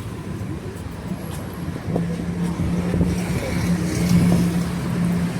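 City street traffic: a motor vehicle's engine running nearby over a steady low rumble of road noise. A steady low engine hum comes in about two seconds in.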